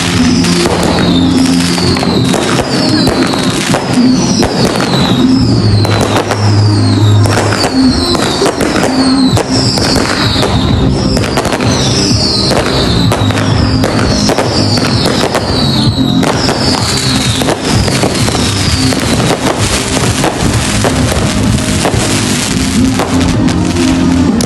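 Dense, continuous fireworks: rapid bangs and crackling with short falling whistles repeating about once a second through most of it. Music with a stepping bass line plays underneath.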